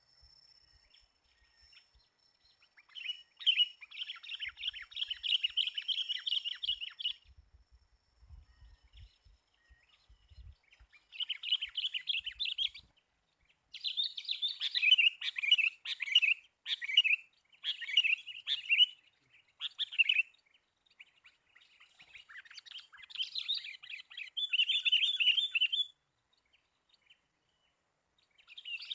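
Sooty-headed bulbuls (kutilang) calling in bursts of quick chattering song: about five phrases, each one to four seconds long, with short pauses between them.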